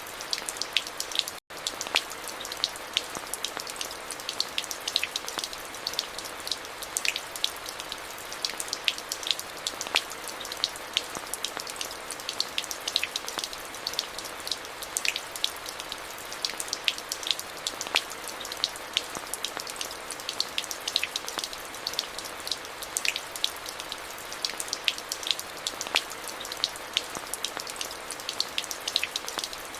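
Steady rain: an even hiss with many sharp, close drop ticks scattered through it. The sound cuts out completely for an instant about a second and a half in.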